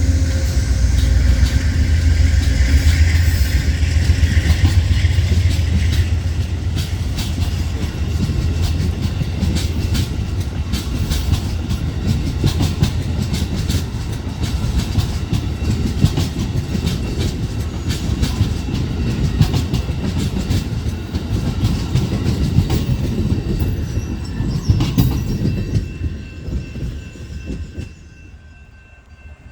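A train rolling past. It opens with a heavy low rumble, then the wheels clatter in quick clicks over the rail joints, and the sound fades away near the end as the train moves off.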